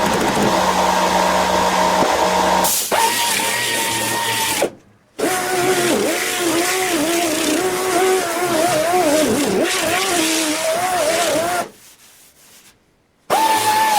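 A power tool running. Its sound changes about three seconds in to a whine that rises and falls in pitch, and it cuts out twice, briefly near five seconds and for over a second near the end.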